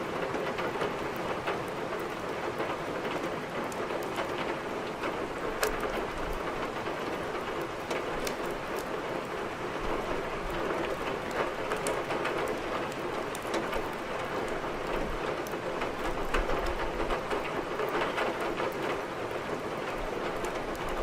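Steady rain hissing, with scattered sharp crackles of a wood fire burning in a fireplace.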